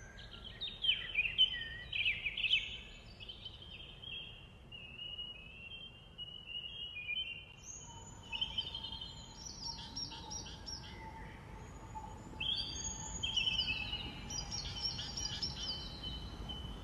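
Several songbirds chirping and trilling at once over a steady outdoor hiss, with the calls growing busier in the second half.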